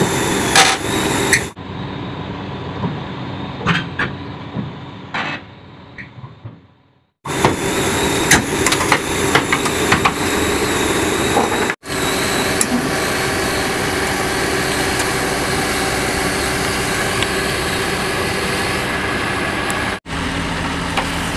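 Heavy diesel vehicle engine running steadily, heard across several edited clips. One quieter stretch fades out to silence about seven seconds in, then the loud engine sound resumes.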